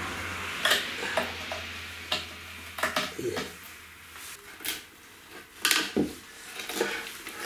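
Scattered metallic clinks and scrapes of hand tools and small hardware being handled, irregularly spaced, over a low steady hum through about the first three seconds.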